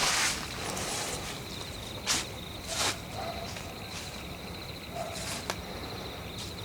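Crickets chirring steadily, with a handful of irregular footsteps crunching on the forest floor, loudest about two and three seconds in and again around five seconds in.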